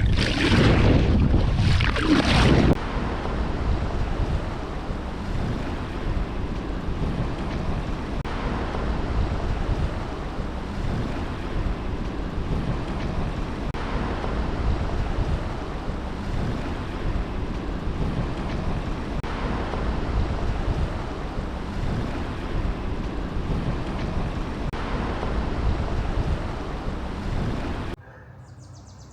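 Wind buffeting the microphone over steady rushing water and surf while kayaking, louder in the first few seconds, then dropping abruptly near the end.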